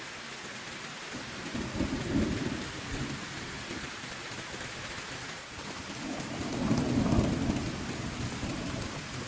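Steady heavy rain with two low rolls of thunder, one about two seconds in and a louder, longer one around seven seconds.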